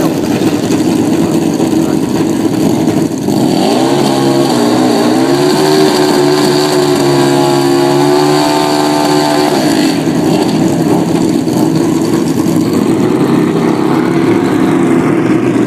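Drag-racing motorcycle engines running loudly. About four seconds in, one engine's pitch dips, then climbs and holds high for a few seconds before cutting off near ten seconds in.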